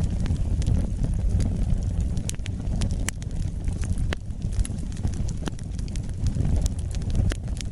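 Wood fire burning in a fireplace: a steady low rumble of flames with irregular sharp crackles and pops, a few louder snaps among many small ones.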